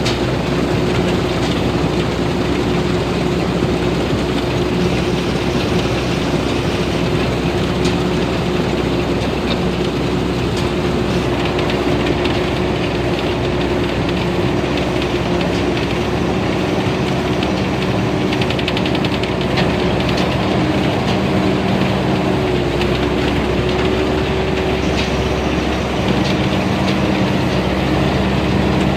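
TAMCO combine harvester running steadily, its Hino J08C six-cylinder diesel engine and harvesting machinery making a constant mechanical drone with a steady hum.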